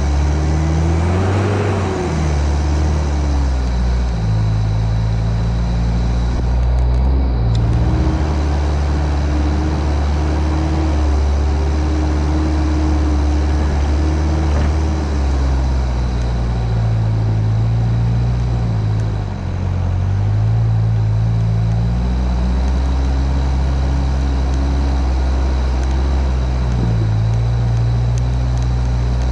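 Mitsubishi Pajero's engine working the off-road 4x4 through deep muddy forest ruts. Its pitch rises and falls with the throttle, holds steady for several seconds at a time, and dips briefly about two-thirds of the way through.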